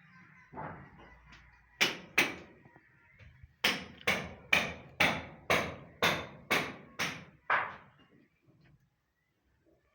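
Hammer blows: two strikes about two seconds in, then a steady run of about nine strikes, roughly two a second, each with a short ringing tail.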